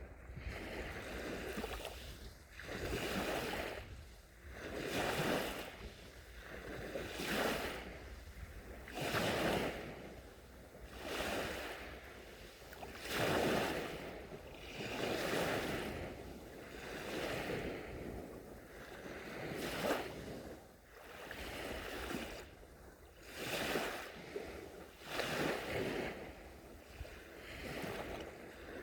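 Small sea waves breaking and washing onto the shore in a steady rhythm, a surge of hiss about every two seconds, with a low rumble of wind on the microphone beneath.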